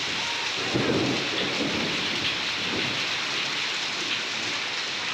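Heavy rain pouring down in a steady hiss. About a second in, a low rumble of thunder swells and fades away over the next couple of seconds.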